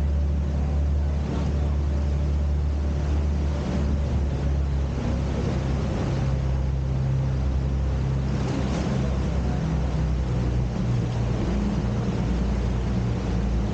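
Sightseeing boat's engine running steadily, a low drone heard from on board, with a constant hiss of water and wind over it.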